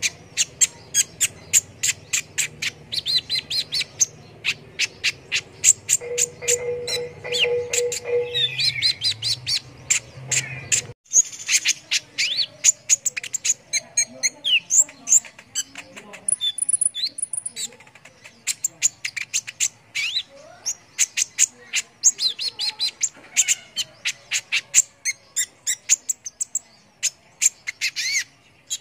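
Small songbirds chirping and twittering rapidly, sharp high chips and short trills coming several times a second. A low hum and a steady tone sit under the calls until an abrupt cut about eleven seconds in, after which the birdsong goes on alone.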